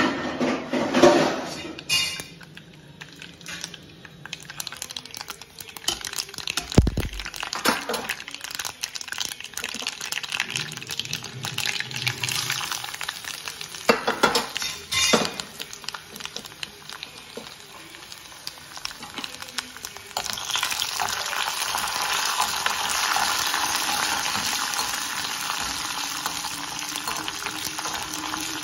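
Utensils clattering and knocking, with scattered clinks, as dal, cumin, dried red chillies and garlic go into a metal kadai. About two-thirds of the way in, a steady sizzle starts as the tempering fries in hot oil and a ladle stirs and scrapes it around the pan.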